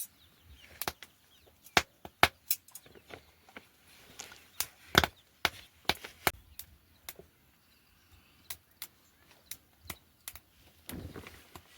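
A series of sharp knocks or taps at an uneven pace, about two dozen in all, the loudest in the middle, with a short noisier patch near the end.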